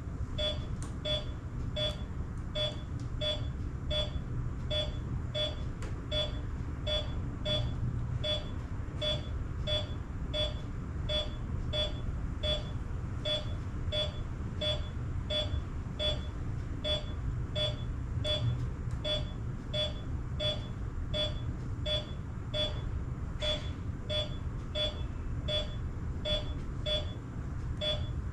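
Veterinary patient monitor beeping steadily, about three short beeps every two seconds, in time with the animal's heartbeat. A low hum runs underneath.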